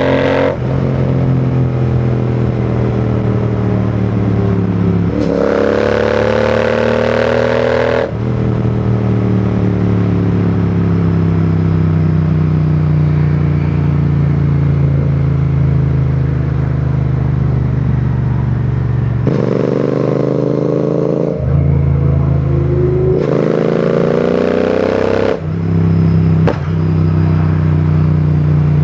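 Royal Enfield Continental GT 650's 648 cc parallel-twin engine and exhaust under way. It revs up three times under throttle, each time dropping in pitch at a gear change, and eases off slowly in between.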